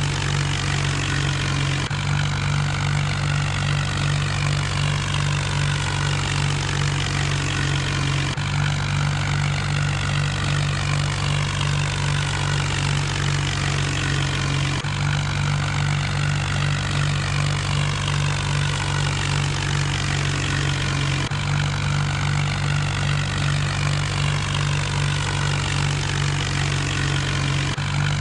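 John Deere tractor's diesel engine running steadily at an even speed, with a small break in the sound about every six and a half seconds.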